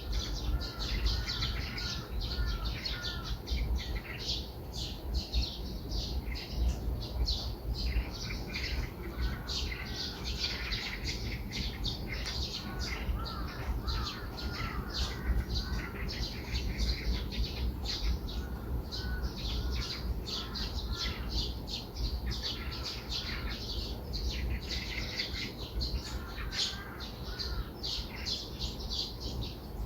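Small birds chirping and calling in a morning chorus: many short high chirps overlapping throughout, with some lower warbled phrases, over a steady low rumble.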